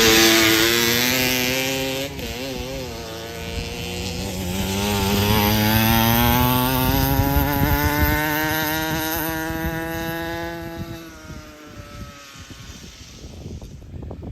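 Kawasaki KMX 125 two-stroke dirt bike passing close by with a drop in pitch, then revving higher and higher as it accelerates around the track, fading out about eleven seconds in.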